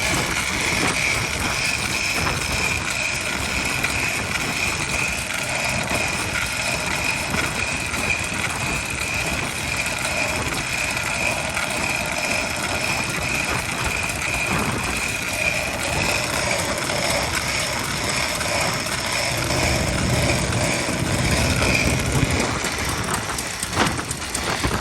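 Vintage Japanese stationary engine running steadily, with a steady high whine over the engine's rapid beat that stops a little before the end.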